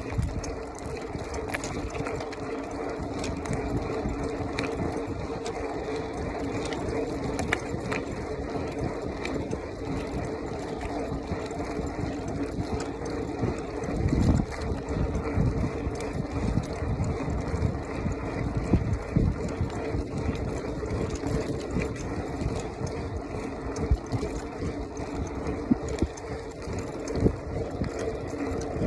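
BMX bicycle riding over a rough forest track, heard from a phone mounted on the bike: tyre and frame rumble with scattered knocks over bumps and a steady hum, with a heavier jolt about halfway through.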